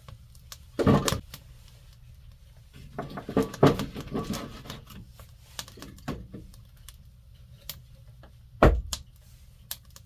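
Irregular knocks and clatter of hard objects being handled and set down, with quiet gaps between. There is a cluster of knocks a few seconds in and a single loud knock near the end.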